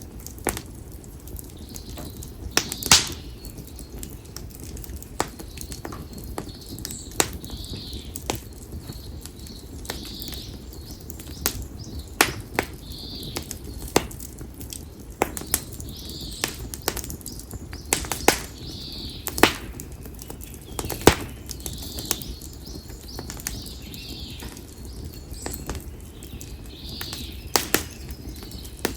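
Split konara oak firewood burning in an open fire, crackling with irregular sharp pops, a few of them much louder than the rest. A bird calls in the background, a short note repeated every two or three seconds.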